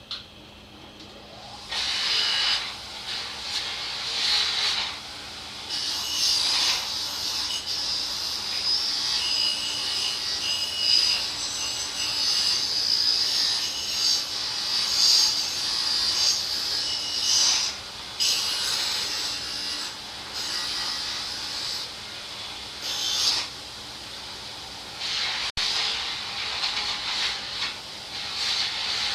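Carburetor parts being buffed against a power-driven buffing wheel: a continuous rubbing, rasping sound that starts under two seconds in and swells and dips as the parts are pressed on and moved.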